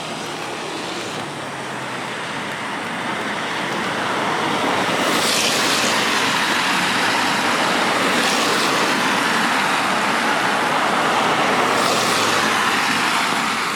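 Road traffic passing on a rain-wet street: a steady tyre hiss that swells louder about four seconds in and eases off near the end, over falling rain.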